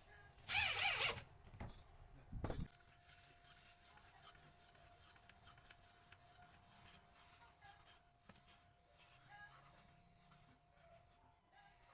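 A short, loud rasping scrape of hand-work on wood about half a second in, then a brief knock and a run of light clicks and taps of tools and parts being handled, over a faint steady tone.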